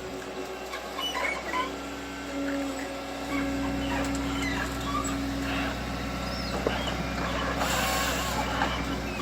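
A heavy machine's engine running steadily, its low hum strengthening about three seconds in, with short high chirps scattered over it.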